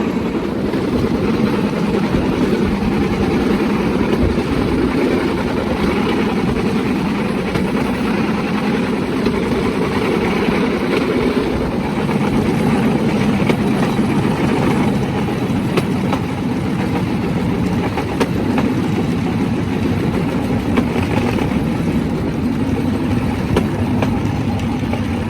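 Bamboo train running along the rails: the steady drone of its small engine mixed with the rattle of the platform and wheels on the track.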